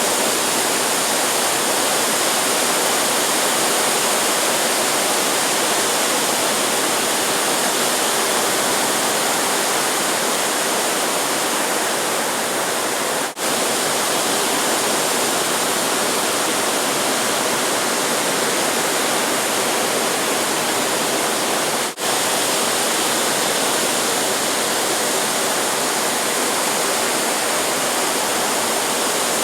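Steady, even rushing of ocean surf, broken by two very short dropouts about a third and two thirds of the way through.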